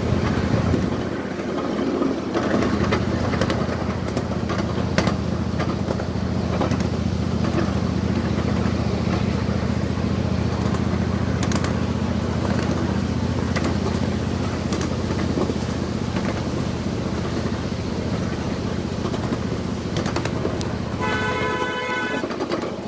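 Small passenger train riding along its track: a steady engine drone with a light scatter of clicks from the wheels and cars. About a second before the end a high pitched tone with several overtones starts.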